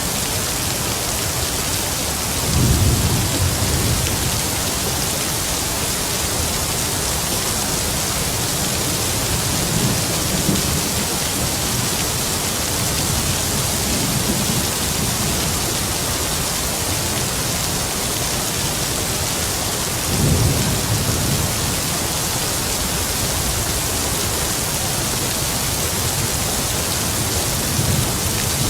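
Heavy rain falling in a steady hiss, with low rumbles of distant thunder rolling under it: a strong roll about three seconds in, fainter ones around ten and fourteen seconds, another strong one about twenty seconds in, and a short one near the end.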